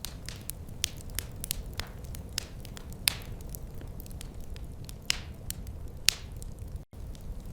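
Wood fire crackling, with irregular sharp pops and snaps of varying strength over a low steady rumble. The sound cuts out for a split second near the end.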